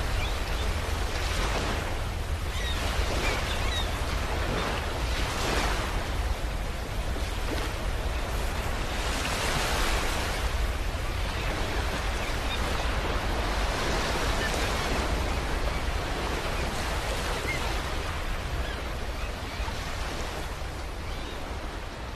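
Waves washing in and out, swelling every few seconds, with a steady low rumble of wind on the microphone; it fades out near the end.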